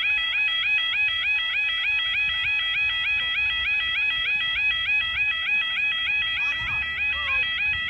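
UK level crossing's audible warning alarm sounding continuously, a loud repeating two-tone warble about three times a second.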